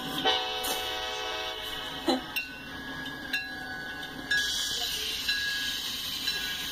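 CSX freight train's diesel locomotives passing close: a steady engine drone with the rumble of the train and a few sharp clicks of wheels over the rails.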